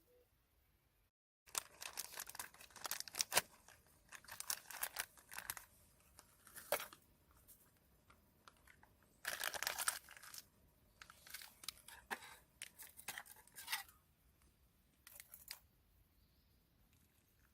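Irregular bursts of rustling and crinkling, like material being handled or torn, for about fourteen seconds. The sound starts sharply after a brief dead gap about a second and a half in.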